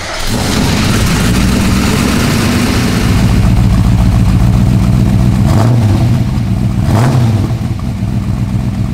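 Holden 4.9-litre V8 of an HDT VK Group A Commodore running at a steady idle, its throttle blipped twice about five and a half and seven seconds in, the revs rising and falling each time, then settling to a quieter idle.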